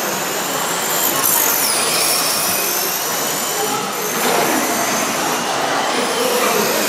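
Radio-control stock trucks racing, their motors whining in high pitches that rise and fall as the trucks pass, over a steady hiss of running noise.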